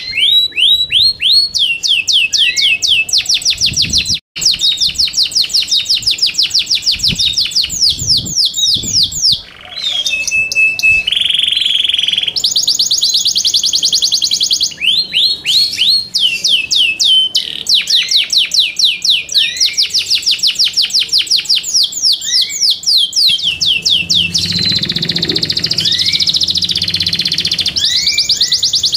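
Yorkshire canary singing: long rolls of rapidly repeated falling notes, with a harsher steady buzzing phrase about ten seconds in.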